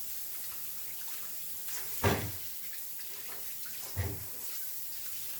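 Tap water running steadily into a kitchen sink as vegetables are rinsed, with two knocks about two and four seconds in, the first the louder.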